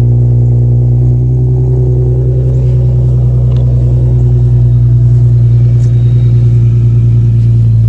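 Infiniti G37 coupe's V6 engine idling steadily, a loud, even drone.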